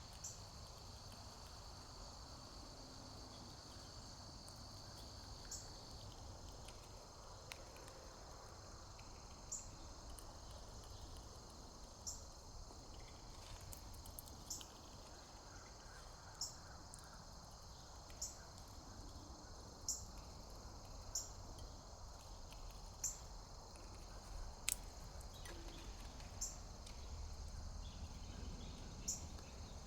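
Steady high trilling of an insect chorus, with one steady high tone dropping out about six seconds in. Over it a short, very high, upward-flicking call repeats every second or two.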